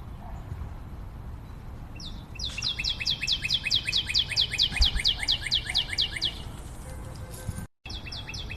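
A bird calling: a fast, even series of short high notes, each sliding down in pitch, about eight a second, for about four seconds. The audio drops out briefly, then the series starts again near the end.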